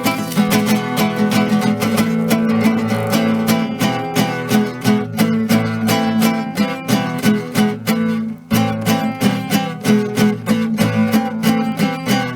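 Acoustic guitar strummed in a steady rhythm, the chords ringing between strokes, with a brief break about eight seconds in.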